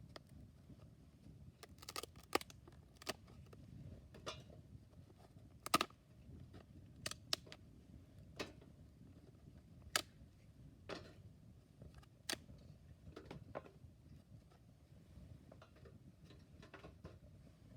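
Campfire crackling, with irregular sharp pops and snaps of burning wood over a faint low rumble of the fire.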